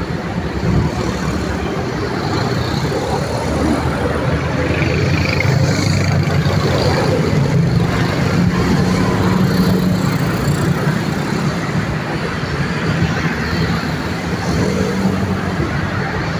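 Busy road traffic: a steady mix of vehicle engines and tyre noise from cars, trucks and motorbikes passing, a little louder for a few seconds in the middle.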